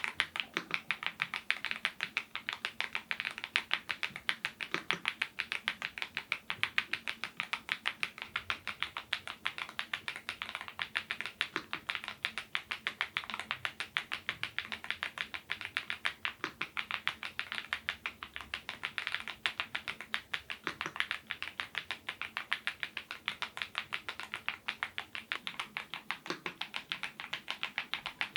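Continuous fast typing on a YUNZII IF99 full-size mechanical keyboard with lubed Gateron Zero switches: a dense, even stream of soft clicky keystrokes, several a second.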